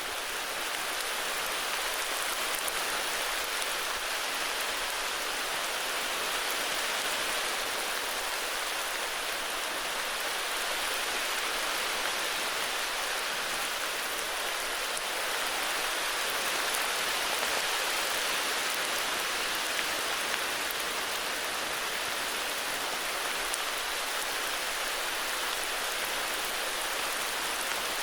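Steady heavy rain falling, an even hiss with fine patter of drops on surfaces.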